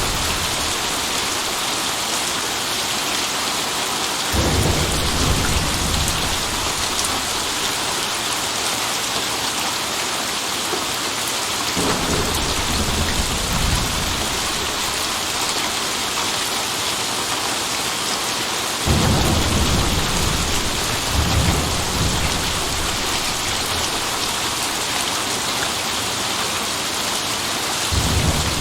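Steady heavy rain with rolls of thunder. The thunder rumbles low and comes in about every seven to eight seconds, three times through the middle and once more near the end.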